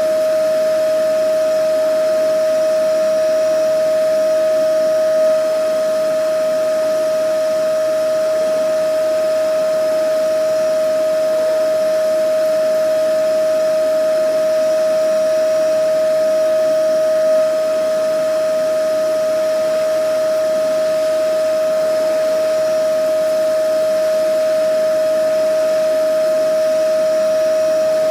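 Vacuum cleaner running steadily: an even motor whine with a strong single pitch over a wide rushing-air hiss, swelling slightly about every twelve seconds.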